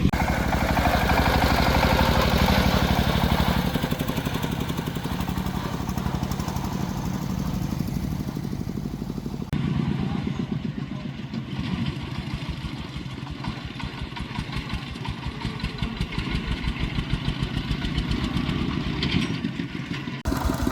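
Single-cylinder diesel engine of a công nông farm truck running, with fast, even firing pulses. The sound changes abruptly about halfway through.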